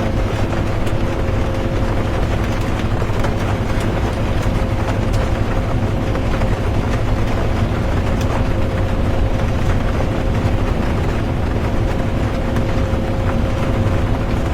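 Bus interior while driving: a steady, even rumble of engine and road noise with a constant tone running through it, and the faint patter of rain.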